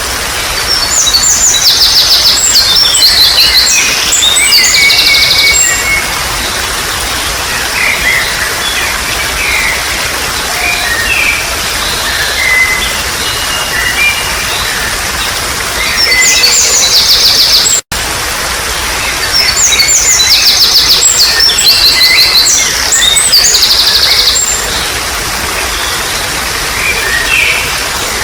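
Trickling water running steadily under songbirds: two long bouts of rapid, high chirping song, one starting about a second in and another around two-thirds of the way through, with softer scattered calls between them. The sound cuts out for an instant just before the second bout.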